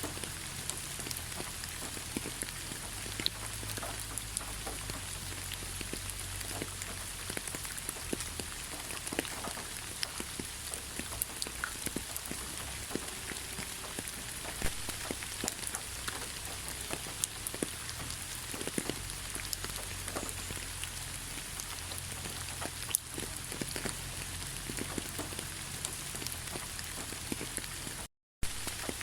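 Steady rain falling, with many scattered sharp drop ticks over an even hiss and a low rumble underneath. The sound cuts out completely for a moment about a second before the end.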